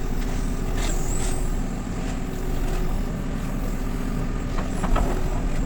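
JCB 3CX backhoe loader's diesel engine running steadily under work, with a short high squeal about a second in and a few knocks near the end as the digging meets ice.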